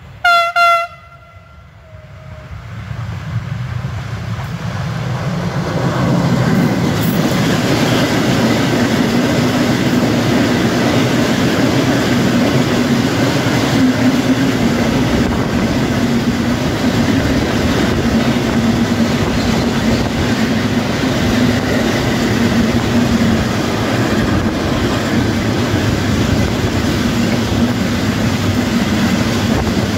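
A train's horn sounds one short blast right at the start. The train then comes closer, growing louder over several seconds, and runs past close by with a steady loud rumble of wheels on rails.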